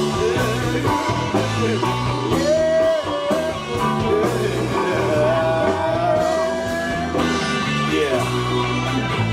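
A live band playing a slow rock-blues passage: bass and guitar chords under a melody of long held notes that slide into pitch.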